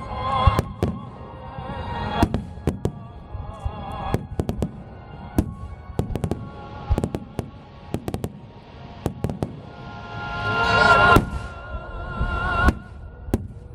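Aerial fireworks shells bursting in rapid succession: a string of sharp bangs and crackles over a low rumble, with a denser, louder cluster about ten to eleven seconds in.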